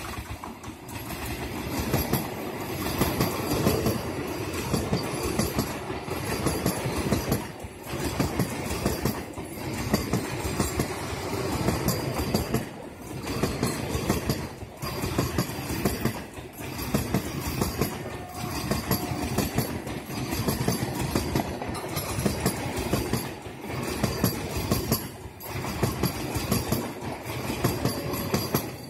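Vande Bharat Express (Train 18) electric multiple unit passing close at speed: a continuous rush of steel wheels on rail with clickety-clack, swelling and dipping every second or two as the coaches go by.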